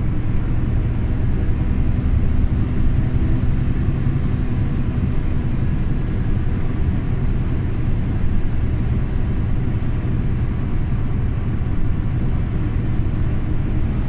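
Scania OmniLink CL94UB city bus underway, its engine and drivetrain giving a steady low rumble with no marked change in speed or pitch.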